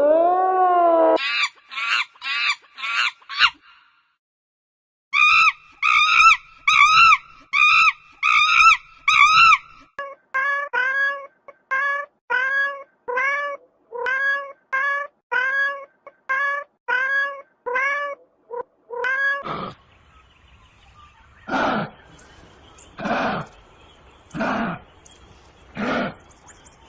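A string of short animal calls from several clips. First a rising call, then rapid high calls, then a long run of short calls that rise and fall, about two a second. Near the end come a few longer calls over a hiss, about one every second and a half.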